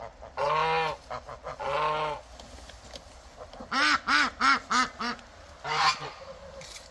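A goose honking: two drawn-out honks, then a quick run of about six short honks and one more near the end.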